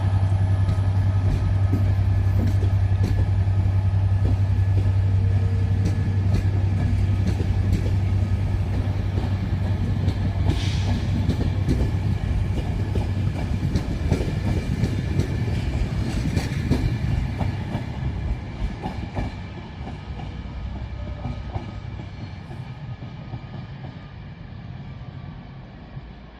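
A train running past on the main line, with a steady low hum and wheels clicking over the rail joints, fading gradually as it moves away over the last several seconds.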